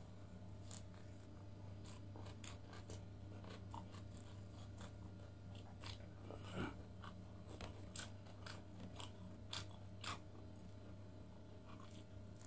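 A person chewing grilled lamb chop meat eaten by hand: faint, irregular clicks and crunches of chewing and biting, the strongest about six and a half seconds in, over a steady low electrical hum.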